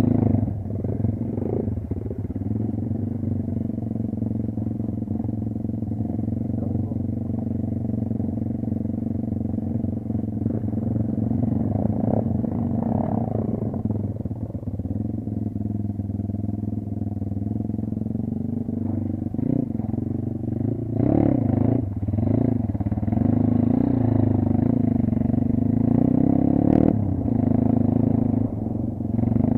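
Kayo dirt bike engine running steadily, its revs rising and falling more in the last third.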